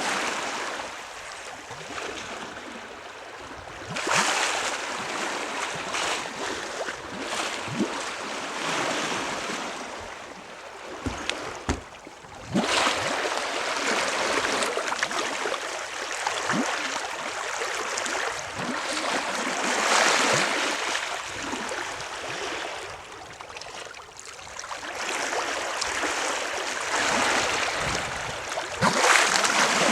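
Water rushing and splashing along the hull of a moving sailing yacht, swelling louder and softer every few seconds.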